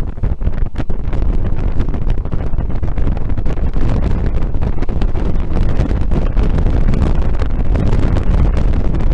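Passenger train running at speed: a loud, steady rush of wheels and rails with heavy wind buffeting the microphone.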